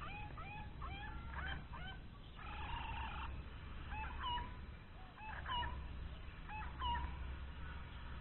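Birds calling: a quick run of rising whistled notes, about three a second, then three sharp calls spaced a little over a second apart, over a low rumble.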